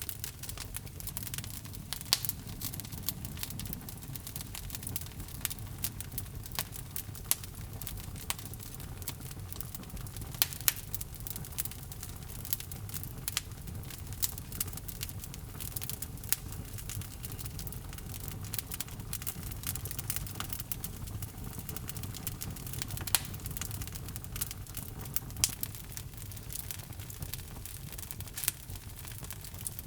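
Wood logs burning in a fireplace: a steady low rumble of flame with frequent sharp crackles and pops, a few louder pops standing out.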